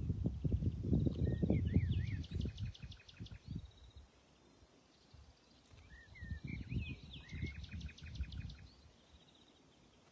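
A songbird sings two phrases, each a few rising-and-falling notes followed by a quick run of repeated short notes. Gusty wind rumbles on the microphone underneath.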